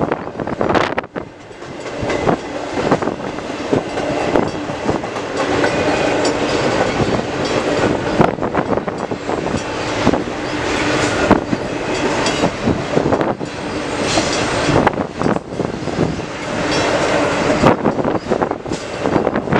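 Double-stack container cars of a CN intermodal freight train rolling past: a steady rumble of steel wheels on rail, broken by frequent sharp clicks and clatter as the wheels pass over the track.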